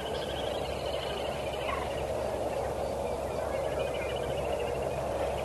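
Bird calls: a rapid rattling trill lasting about a second and a half at the start, and a shorter one about four seconds in, over a steady rushing background noise.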